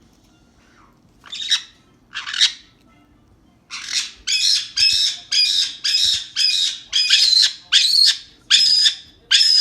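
Amazon parrot squawking: two harsh calls, then a long run of about a dozen repeated squawks at roughly two a second.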